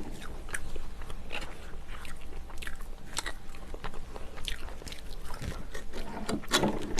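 Close-miked eating of seafood stew: chewing and biting with wet mouth clicks and small crunches, irregular throughout, thickest near the end.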